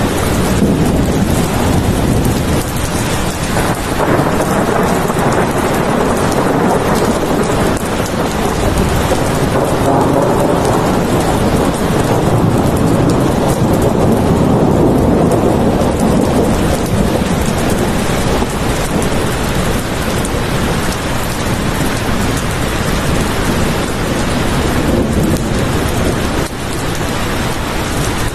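Steady heavy rain falling, with a low rumble of thunder that swells and fades about halfway through.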